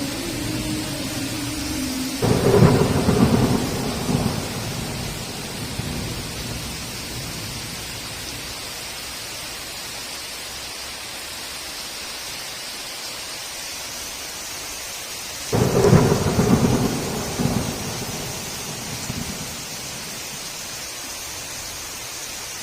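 Steady heavy rain with two sudden claps of thunder, one about two seconds in and another about fifteen seconds in, each rumbling away over a couple of seconds.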